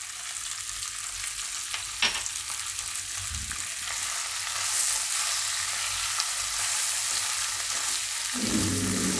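Cut okra frying in hot oil in a pan, a steady sizzle, with a silicone spatula stirring and tossing the pieces from a few seconds in; the sizzle swells a little around the middle. A single light click about two seconds in.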